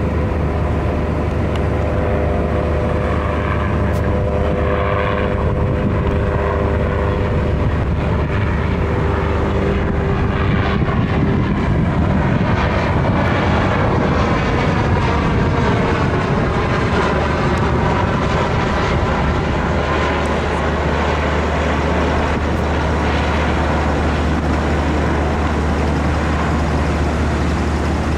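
Little Bird light helicopter flying past over a steady low drone, with a whine in the first few seconds; the sound sweeps as it passes at mid-clip, roughly 10 to 20 seconds in.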